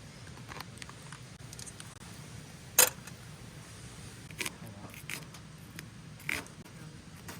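A few short, sharp clicks or knocks, one loud one about three seconds in and fainter ones later, over a low steady background.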